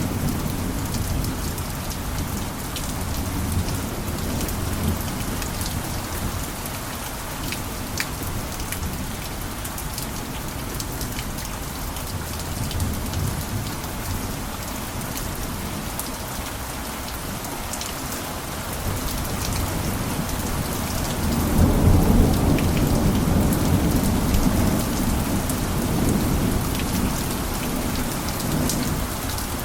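Steady heavy rain with scattered sharp drop ticks, under a low rolling rumble of thunder that eases off in the middle and swells loudest about two-thirds of the way through.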